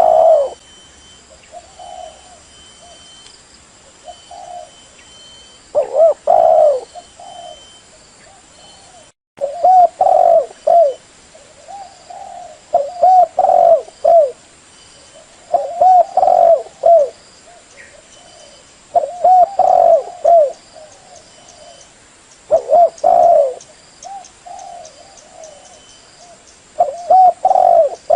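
Female spotted dove cooing: loud coo phrases repeating about every three seconds, with softer coos between them.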